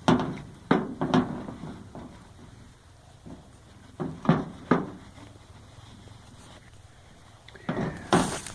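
Sharp clacks and knocks of a gun being handled and worked during repair. There are three quick ones at the start, three more about four seconds in, and a louder one near the end.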